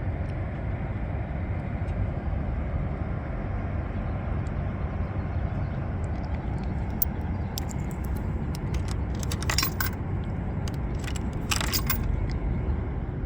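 Steady low rumbling noise, with a few brief bursts of metallic jingling about two-thirds of the way through.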